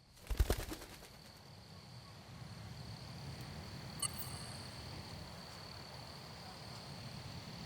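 Quiet outdoor nature ambience: a steady thin high-pitched drone over a low rumble, with a few sharp clicks in the first second and a single short high chirp about four seconds in.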